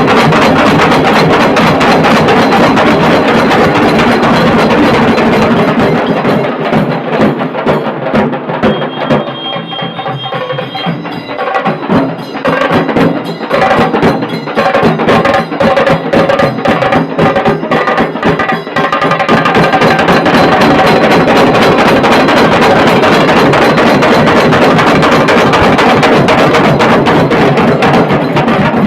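Dhol-tasha band drumming: rapid, cracking tasha strokes over dhol beats. The playing thins to sparser, separate strokes about six seconds in and returns to full, dense volume about twenty seconds in.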